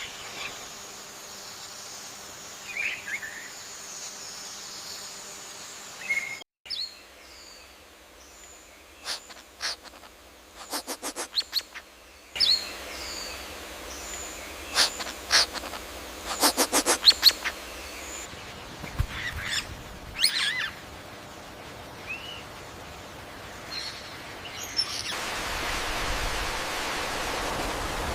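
Birds giving short chirps and calls, with two quick chattering runs of rapid notes, over outdoor background noise that changes abruptly several times. Near the end a steady hiss comes up.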